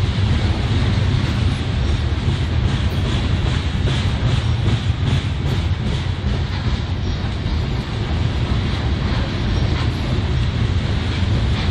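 Train rolling past close by: a steady rumble of wheels on the rails with repeated clicking as the cars go over the track.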